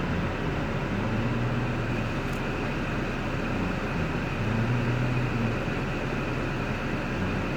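Cadillac 3.6L LY7 V6 idling steadily, a low hum that swells twice and fades.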